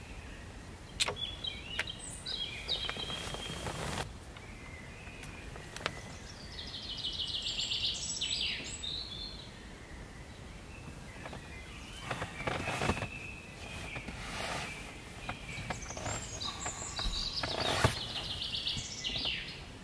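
Wild birds calling and singing in mountain forest, with a fast chirping trill about a third of the way in and more calls near the end, over a steady background hiss. A few sharp clicks or knocks are mixed in.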